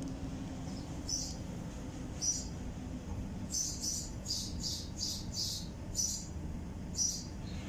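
A small bird chirping: short high chirps about once a second, then a quick run of them in the middle, over a steady low hum.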